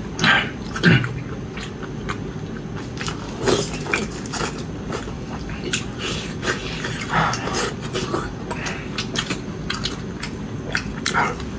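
A person chewing and biting food close to the microphone: a string of short wet mouth clicks with a few louder bites, over a steady low background hum.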